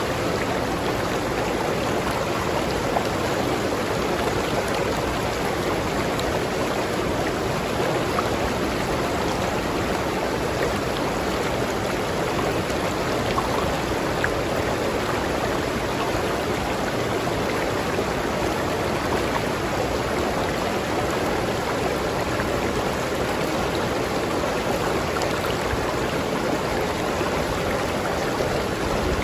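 River water flowing steadily over rocks, a constant rushing with small splashes.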